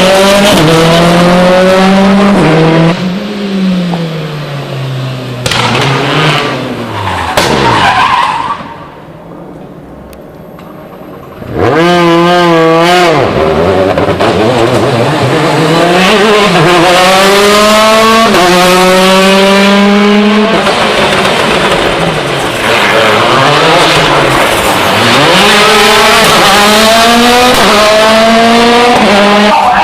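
Rally car engines revving hard, the pitch climbing and dropping through repeated gear changes as cars pass, with tyres skidding. There is a short quieter lull near the middle before engine noise returns at full volume.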